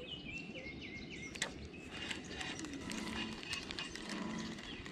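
A bird calls a few quick falling whistles, followed about a second and a half later by a single sharp click and scattered light ticks.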